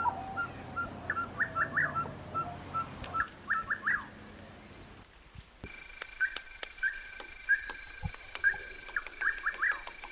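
Birds calling repeatedly: short chirps followed by quick downward-sweeping notes, in phrases throughout. About halfway through the background changes abruptly and a steady high-pitched tone runs under the calls.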